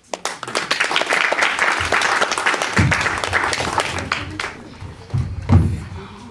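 Audience applauding, dense clapping that fades after about four seconds, with voices mixed in.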